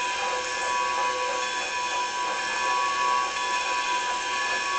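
A train running, heard as a steady mechanical whine and hum whose pitch does not change.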